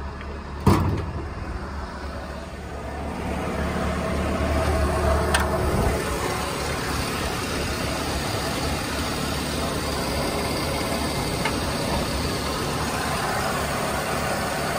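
1978 Ford Mustang II engine idling steadily on its cold high idle, getting louder a few seconds in as the engine bay is opened up. A single sharp clunk about a second in as the hood is opened.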